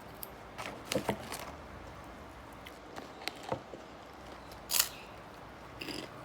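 Someone eating: a few scattered short crunches and clicks of biting and chewing, the loudest about three-quarters of the way through.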